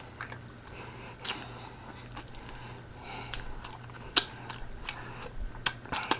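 Close-miked chewing with wet lip smacks and mouth clicks at an irregular pace, with sharper smacks about a second in and again about four seconds in.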